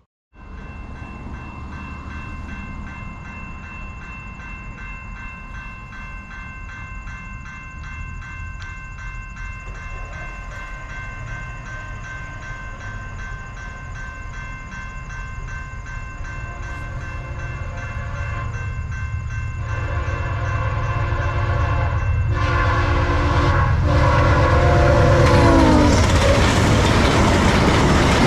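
Grade-crossing bell ringing steadily as a train approaches. The locomotive horn then sounds the crossing signal, long, long, short, long, with the last blast dropping in pitch as the train reaches the crossing. The rumble of the train grows louder and passes close.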